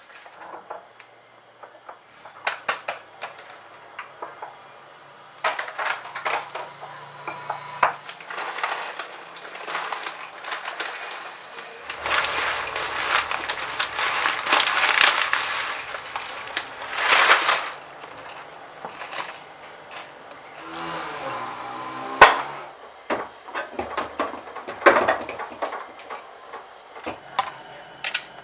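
Everyday objects being handled: a run of short knocks, clicks and clinks, with a longer stretch of rustling noise in the middle and a sharp knock a little past the two-thirds mark.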